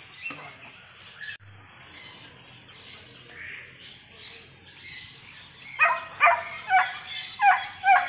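Birds chirping, then a quick series of about six loud calls starting about six seconds in.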